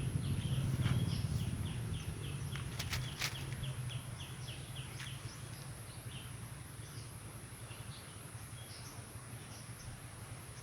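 Outdoor ambience: a bird calls in a quick run of short chirps for the first few seconds over a steady high insect drone. A low rumble fades away over the first few seconds.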